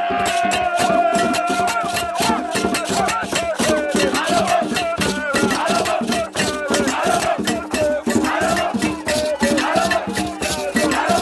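A group singing over fast, steady percussion with shakers or rattles. A single voice holds one long note for about the first three seconds.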